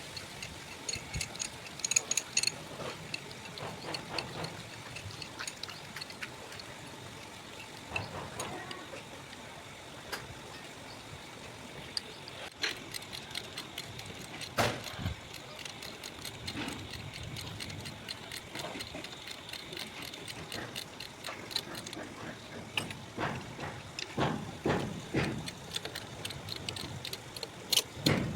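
Metal tools clinking and tapping against engine parts during dismantling, in irregular clicks and knocks that come quicker near the end.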